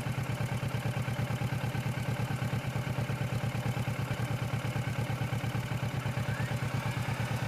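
Kawasaki Versys motorcycle engine idling with a steady, even pulse.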